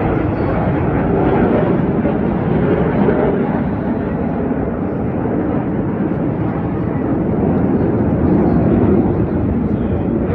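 Steady jet noise from the Black Eagles' T-50B jets flying over the show area, a continuous deep roar with no breaks.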